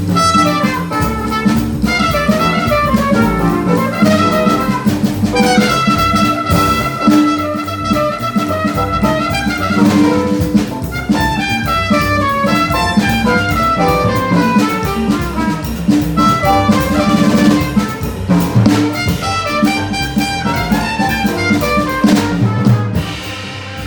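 Small jazz band playing a fast bebop tune live: alto saxophone and trumpet lines over piano, bass and drum kit. The music stops just before the end.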